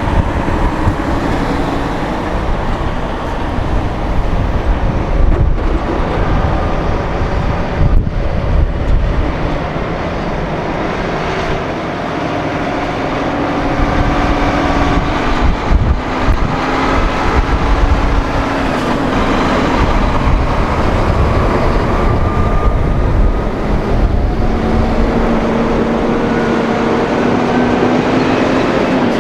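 Heavy diesel trucks driving past with a loud, steady rumble, the engine pitch rising and falling.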